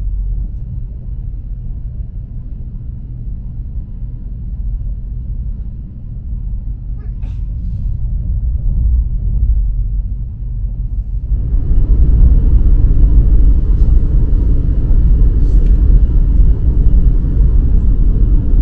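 Cabin noise of a KTX-EUM train under way: a steady low rumble of the running train. It becomes louder and fuller about 11 seconds in.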